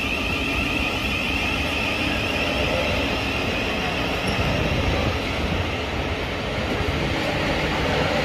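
Electric passenger train running, a steady rumbling rail noise. A high whine fades out over the first three seconds or so.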